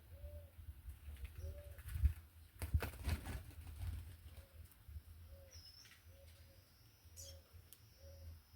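A dove cooing, a short soft arched note repeated about once a second, with a brief noisy clatter about three seconds in and a single high chirp from another bird near the middle.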